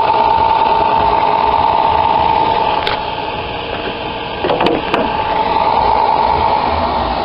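V6 minivan engine running with a steady high whine from its failing alternator pulley, which the owner found seized. A few sharp clicks come near the middle.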